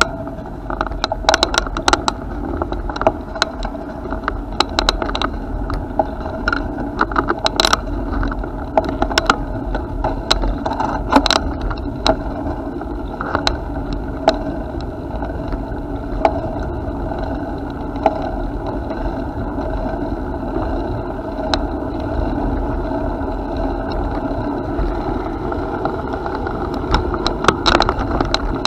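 Bicycle rolling along a path: a steady rolling rumble with frequent sharp rattles and clicks from the bike as it goes over bumps.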